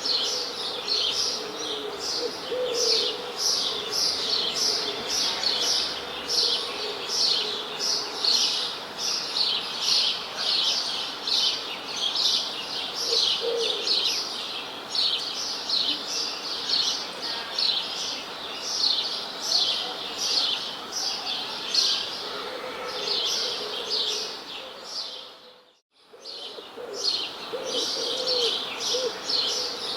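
Small birds chirping in a dense chorus, rapid repeated high chirps with lower calls now and then. The sound dips out to near silence for about a second near the end, then resumes.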